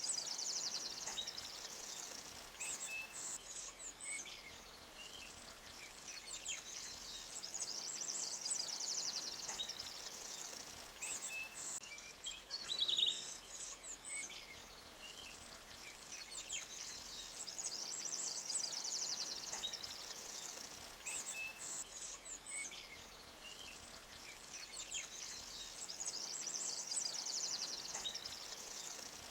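Forest ambience: small birds chirping and trilling high over a faint steady hiss of a flowing stream. The trills swell and fade about every ten seconds.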